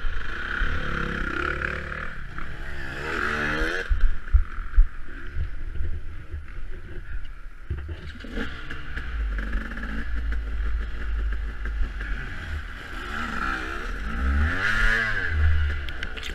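Off-road dirt bike engine being ridden, revving up and falling back twice, with scattered knocks and rattles.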